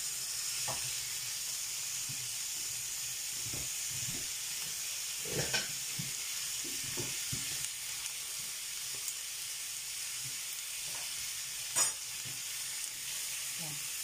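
Minced beef and chopped onions sizzling in oil in a frying pan, with a steady hiss throughout. Kitchen utensils scrape and knock against the pan now and then, with a sharper knock near the end.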